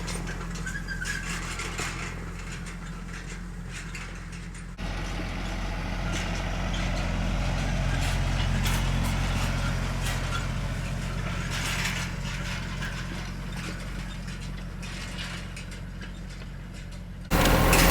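Farm tractor engine running steadily while raking hay, with light mechanical clatter. The sound changes abruptly about five seconds in and again just before the end.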